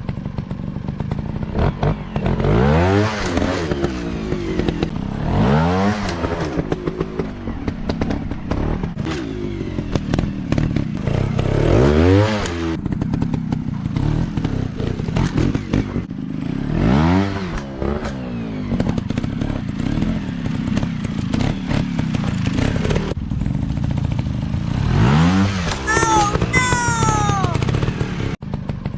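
Small dirt-bike engines running, with the pitch rising and falling on about five hard revs of the throttle, over a steady rattle of knocks and clatter.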